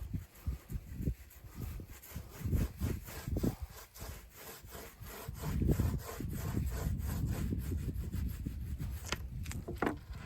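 Hand rubbing or scraping strokes on a hard surface, irregular at first and becoming a steadier, continuous rubbing about halfway through.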